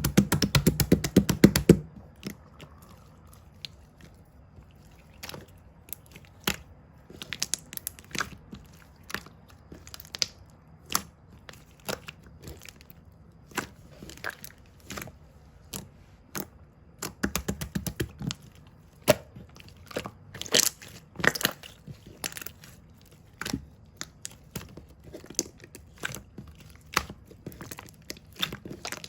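Squishy toys being tapped and handled: scattered sharp taps and short crinkly, crunching clusters, with a fast run of taps in the first two seconds.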